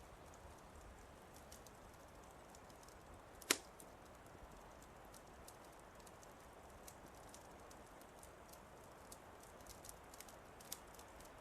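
Wood fire crackling softly in a fireplace: scattered small pops and ticks over a low hiss, with one sharp, louder pop about three and a half seconds in.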